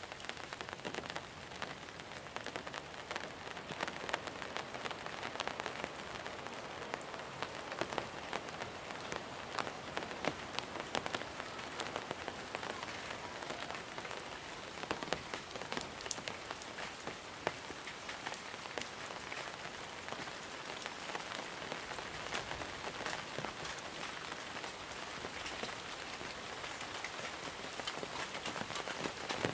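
Steady monsoon rain falling on surfaces, a continuous hiss with many individual drops ticking and pattering through it.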